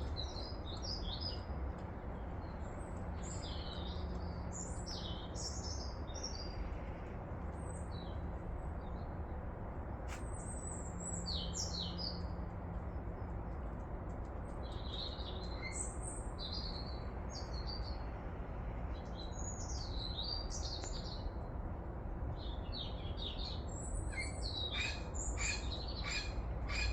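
Birds chirping and singing in short phrases, busiest near the end, over a steady low rumble.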